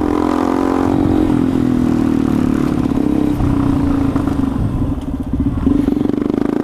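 Motorcycle engine running steadily while riding. Its note dips briefly about five seconds in, then comes back with a rapid throb.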